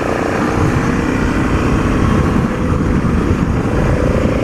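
BMW F650 GS motorcycle on the move: wind buffeting the camera microphone over the single-cylinder engine running steadily.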